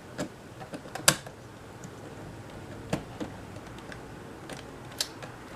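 A few separate sharp plastic clicks and knocks, the loudest about a second in, from a battery pack being pushed and fitted against a camcorder's battery mount.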